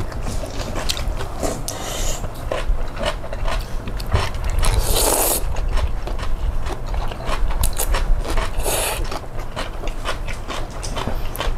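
Close-up eating sounds: rapid crunchy clicks of chewing, with two short noisy bursts about five and nine seconds in.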